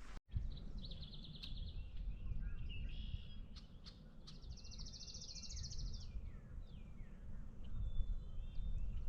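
Songbirds singing: two rapid high trills about a second and four and a half seconds in, with several short downward-slurred calls between them, over a low rumble.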